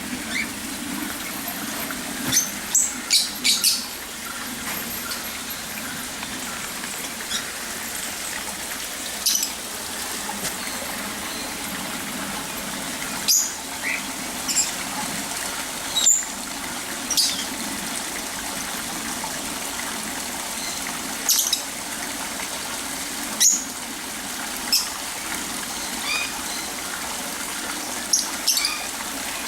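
Birds giving short, sharp, high-pitched calls every few seconds, a quick cluster of them near the start, over a steady rush of running water.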